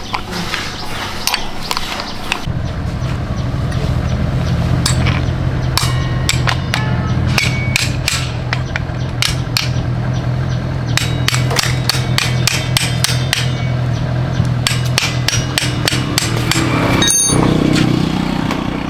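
Repeated, irregular hammer blows on metal during motorbike repair work. A steady low hum sets in a couple of seconds in and runs under the blows.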